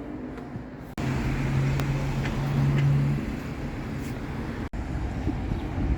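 Bus engine running close by amid street traffic noise, with a steady low hum that fades after a couple of seconds; the sound starts abruptly about a second in.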